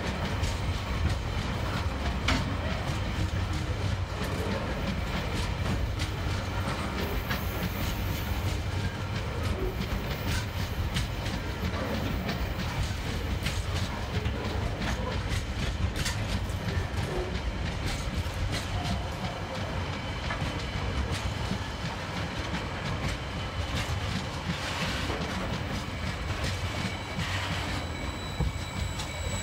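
Empty container wagons of a freight train rolling past in a steady rumble, with frequent clicks of the wheels running over the rail joints.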